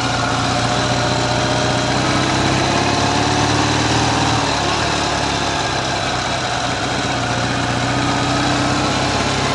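Ural motorcycle's air-cooled flat-twin engine running steadily while still cold. The owner hears what seems a slight knock from the left cylinder.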